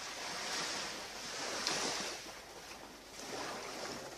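Surf washing onto a beach, a noisy rush that swells and eases, loudest about two seconds in.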